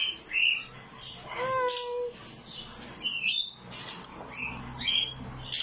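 Pet parrot squawking and chirping in short calls, with one clear whistled note about one and a half seconds in.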